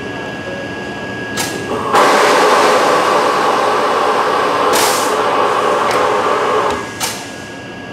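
London Underground 1972 Stock tube train at a station platform. A loud rushing noise starts suddenly about two seconds in and falls away about seven seconds in, with a few sharp knocks through it.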